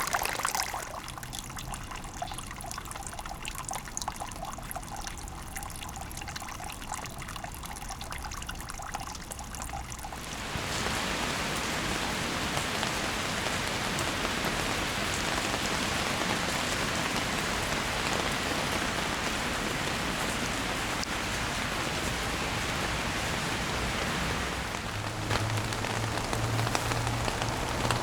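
Rain falling steadily, at first lighter with scattered drips, then from about ten seconds in a louder, denser downpour. A low hum joins near the end.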